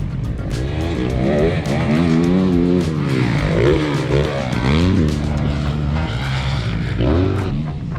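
Motocross bikes on the track, their engines revving up and dropping again over and over as they accelerate and shift, several bikes overlapping.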